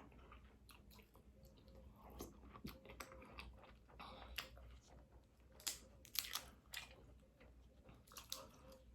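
Faint close-miked eating sounds: soft chewing with scattered wet smacks and small clicks of the mouth as seafood boil food is eaten, the loudest pair of smacks about six seconds in.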